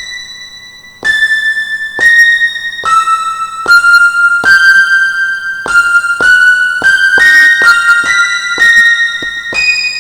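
Roland M-DC1 sound module playing a synth patch that sounds like an electric keyboard: a melody of single high notes, each starting sharply and then ringing on. After a fading note, new notes come in about a second in and quicken through the second half.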